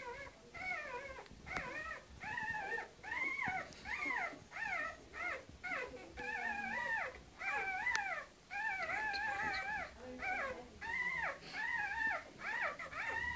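Canaan dog whining and yelping in a continuous series of short, high, arching calls, roughly two a second.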